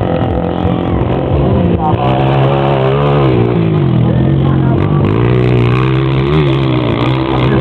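Motocross motorcycle engines in a 125-class race, revving up and down as the bikes accelerate and back off.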